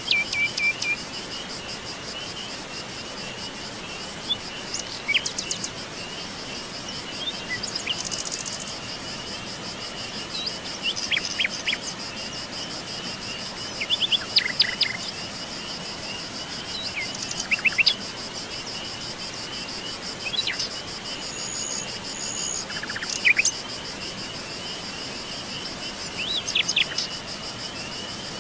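Forest ambience: a steady, high insect trill runs throughout, while birds give short chirps and quick calls every few seconds.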